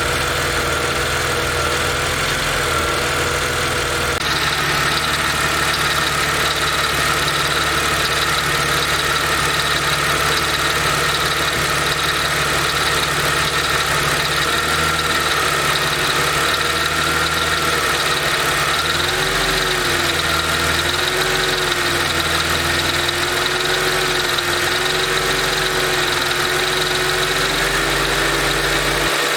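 Mercedes SLK 32 AMG's supercharged V6 idling steadily. The owner hears an even, rhythmic rattle in it, 'dadum dadum', once the engine reaches about 40°C, separate from a quicker tick.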